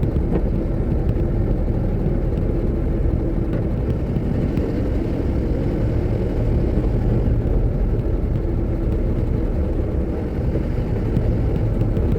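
Vehicle driving on a road, its engine and tyres making a steady low rumble.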